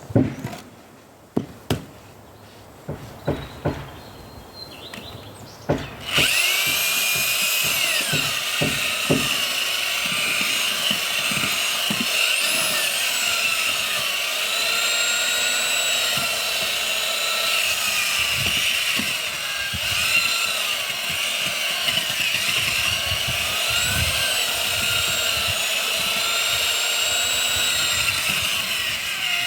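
A few sharp knocks, then an electric power tool starts about six seconds in and runs steadily with a high whine, its pitch dipping and recovering again and again as it works under load.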